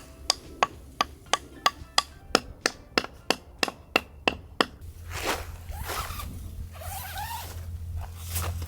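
A knife chopping on a wooden cutting board: a steady run of sharp knocks, about three a second, that stops after about four and a half seconds. Rustling and scraping follow, as if the chopped food is being pushed together on the board.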